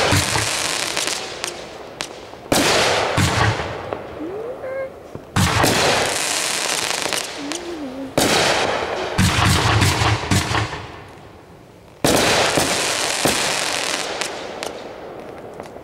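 Consumer fireworks going off: five loud bangs a few seconds apart, each followed by a crackling hiss that fades over a second or two.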